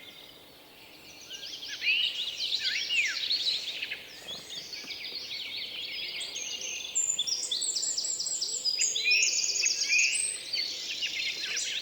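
Many small birds chirping at once: a dense chorus of quick, overlapping high chirps and trills. It starts up about a second and a half in and is busiest near the end.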